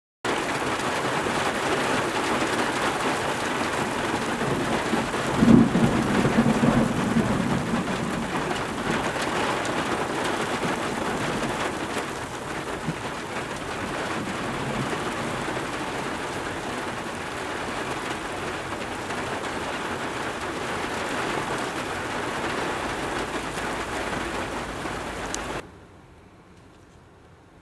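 Heavy rain pouring down in a thunderstorm, with a single clap of thunder about five seconds in that rumbles on for a couple of seconds. The rain noise cuts off suddenly near the end.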